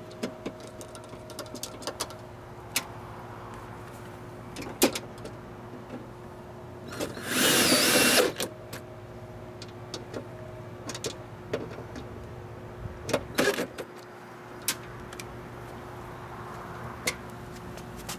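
Scattered clicks and knocks of metal and plastic parts being handled while a window regulator is fitted inside a car door, over a steady low hum. About seven seconds in comes a louder burst of noise lasting just over a second, and a quick pair of knocks follows later.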